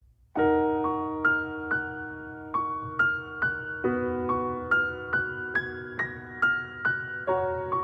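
Background music: a slow piano intro, a chord struck about half a second in, then a steady run of single notes roughly two a second.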